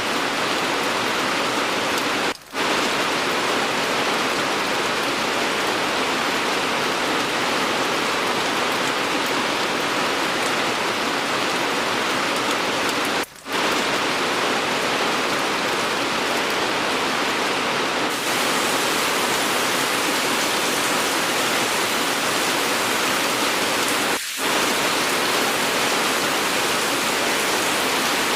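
Steady rain, an even hiss with no thunder heard. The sound drops out for an instant three times, roughly every eleven seconds, which fits the joins in an edited, looped rain track.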